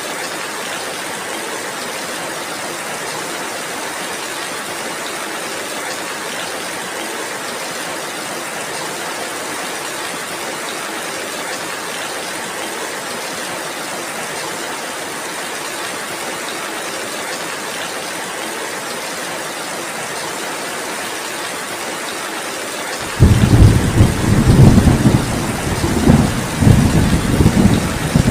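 Heavy rain falling steadily. Near the end a roll of thunder breaks in suddenly, deep and loud, rumbling on in several swells.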